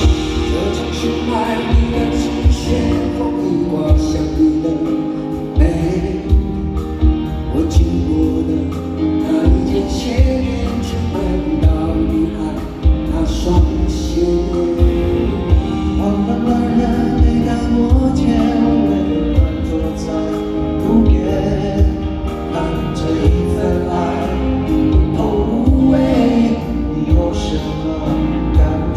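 Live band playing a ballad at a concert, with a steady drum beat under sustained instruments and many voices singing together.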